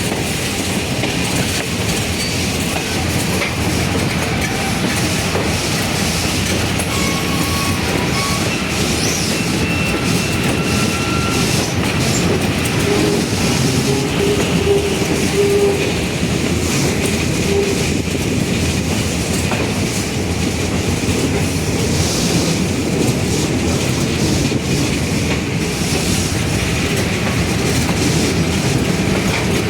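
Passenger train rolling along the track, a steady rumble and clickety-clack of wheels over the rails, with a few brief faint squeals partway through.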